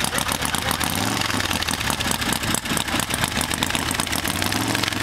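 V-twin engine of a Harley-Davidson hillclimb motorcycle idling at the start line, loud and rough, with the revs lifting briefly twice.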